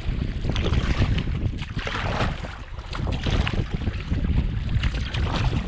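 Strong wind buffeting the microphone in a heavy low rumble, with water splashing from paddle strokes and chop against a canoe being paddled into the wind.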